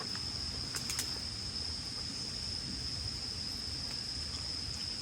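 Insects chirring in one steady, unbroken high note, with a low background hum and a couple of faint clicks about a second in.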